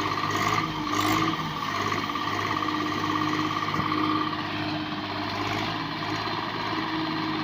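Swaraj 744 FE tractor's diesel engine running steadily.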